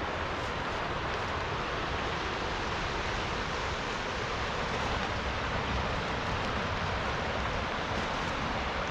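Steady rush of a fast-flowing river, an even wash of water noise with no breaks.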